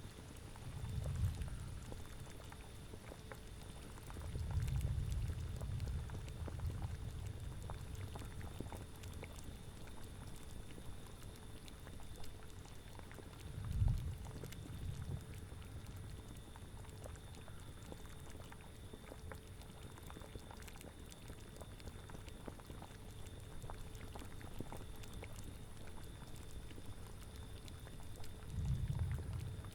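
Cauldron boiling: steady bubbling with scattered small pops, and four low rumbling swells, the sharpest about halfway through.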